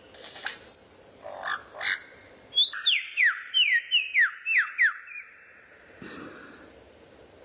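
A songbird singing in clear whistles. It gives a brief high note, then a few down-slurred notes, then a quick run of about nine notes, each sliding steeply down, roughly three a second. The song stops about two-thirds of the way through.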